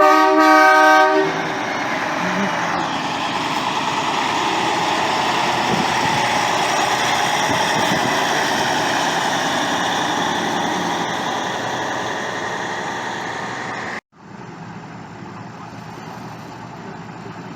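A truck's horn sounds one blast of about a second, several steady tones at once. A heavy truck then drives past, its engine and road noise swelling and slowly fading. The sound cuts off suddenly near the end, leaving a quieter steady rumble.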